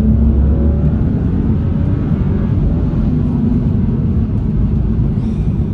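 Cabin sound of a stage-one remapped BMW 435i on the move: its turbocharged straight-six engine and tyre noise make a loud, steady low rumble. The rumble is heaviest in the first second, and a faint engine note climbs slowly over the first two or three seconds.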